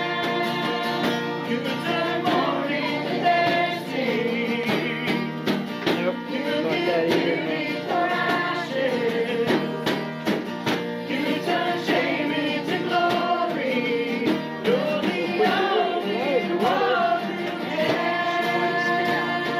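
Congregational worship song: a group singing with acoustic guitar accompaniment.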